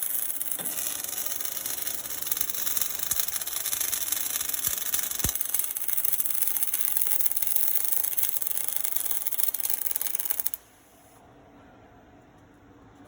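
Welding arc of an automatic hydraulic-cylinder oil-port welding machine: a steady, loud hiss and crackle that cuts off suddenly about ten and a half seconds in, as the weld ends. After that only a faint machine hum remains.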